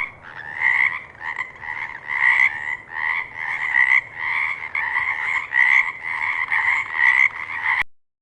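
Frog croaking in a steady run of repeated calls, about two to three a second, which cuts off abruptly near the end.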